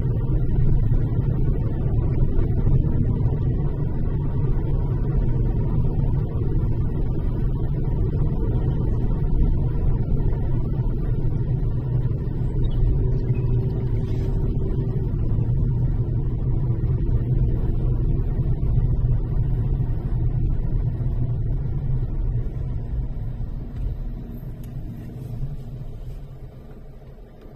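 Car driving along a road: a steady low rumble of engine and road noise that fades out over the last few seconds.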